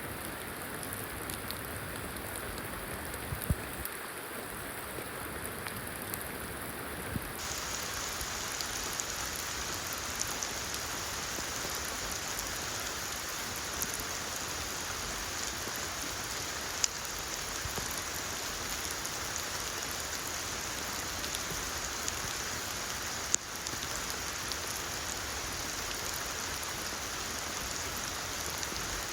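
Steady rainfall hissing, with a few sharper single drop hits now and then. About seven seconds in the rain's hiss suddenly turns brighter and fuller.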